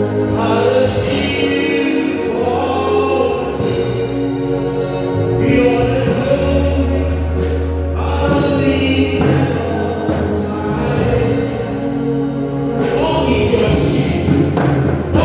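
Gospel song sung by a choir over long held bass notes.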